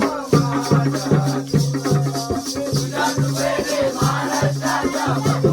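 Jakhadi folk song: a man singing a wavering melody over a steady drum rhythm, with regular jingling percussion and a held drone note underneath.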